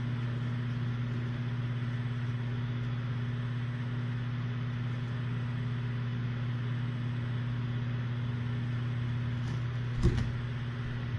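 Steady low electrical-sounding hum with an even hiss behind it, and a single knock about ten seconds in.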